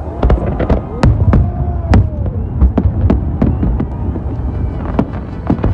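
Fireworks display: shells bursting in a rapid, irregular string of sharp bangs, about a dozen, over a continuous low rumble.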